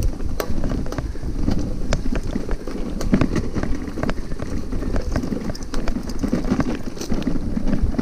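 Hybrid bike rolling over a rough dirt trail: a steady low rumble from the tyres and frame, with frequent sharp clicks and knocks as the bike jolts over bumps, and wind on the microphone.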